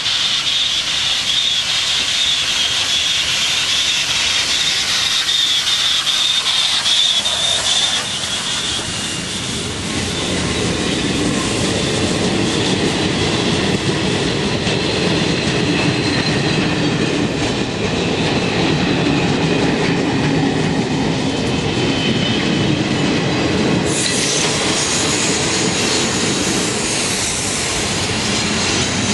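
Steam-hauled passenger train passing close: a high squeal and hiss at first as the steam locomotive comes in, then, from about ten seconds in, the rumble and clickety-clack of the coaches' wheels rolling past. A sharper high hiss joins near the end.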